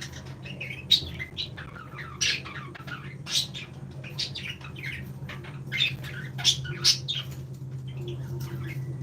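Small parrots chirping and squawking: a busy run of short, high calls with several sharper, louder ones standing out, over a steady low hum.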